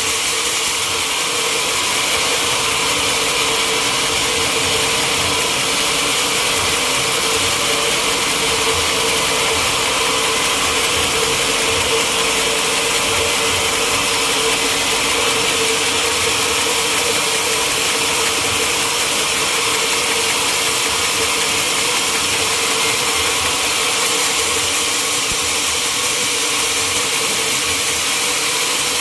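Sawmill machinery running steadily: a constant hum with an even hiss above it, with no breaks or changes.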